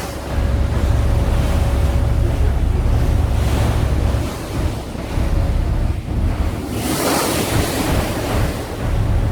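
Wind buffeting the microphone over the rush of water past a moving ferry's hull, with a louder hissing rush about seven seconds in.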